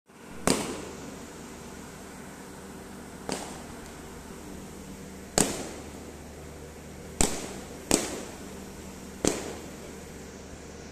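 A passenger train's coaches rolling slowly past with a steady hum, broken by six sharp, loud bangs at uneven intervals, each ringing on briefly.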